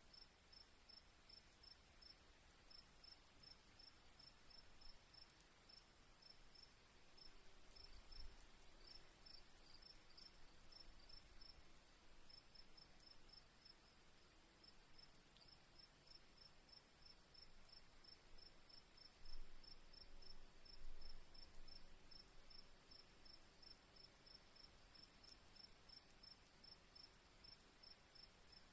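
Crickets at night, faint: a steady high-pitched trill with runs of short, rapid chirps a little lower, pausing briefly now and then. A few low rumbles come and go, the loudest about two-thirds of the way through.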